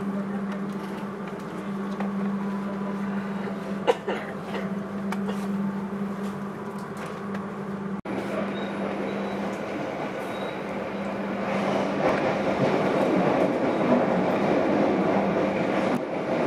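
Inside a passenger train carriage: a steady low hum while the train stands at the station, with one sharp knock about four seconds in. After a cut, the running noise of the train getting under way grows louder about halfway through.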